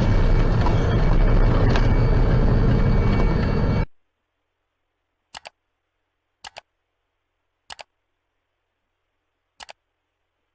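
Steady road and engine rumble of a moving car, recorded by a dash camera, cutting off abruptly about four seconds in. Silence follows, broken by four short double clicks.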